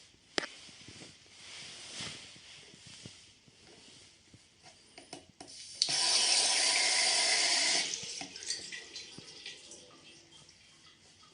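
Light clicks and knocks of handling at the faucet, then the tap is opened and water runs from it for about two seconds before it is shut off abruptly.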